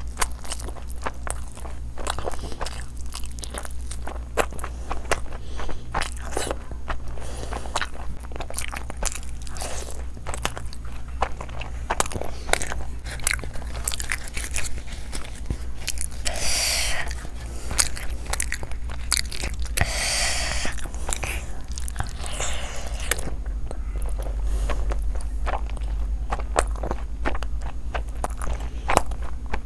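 Wet chewing and biting of a person eating chicken curry and rumali roti by hand, with many small smacks and clicks. Two brief louder rustling bursts come a little past the middle, over a steady low hum.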